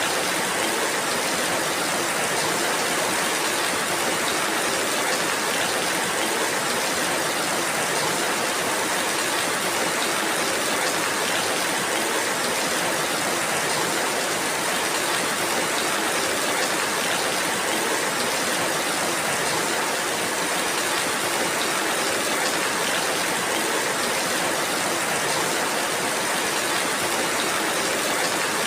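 Steady rainfall, an even hiss with no single drops or other sounds standing out.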